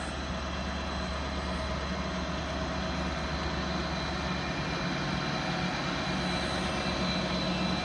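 A train's engine running at a station platform, with a steady low hum and a faint high whine. It grows slowly louder.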